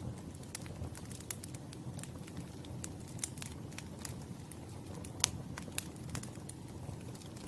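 Campfire crackling: a steady low rumble of burning wood with frequent irregular snaps and pops, one sharp pop about five seconds in standing out as the loudest.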